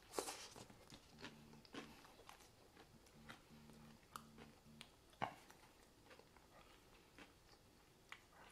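Faint chewing of a bite of crisp-crusted pizza, with scattered soft crunches.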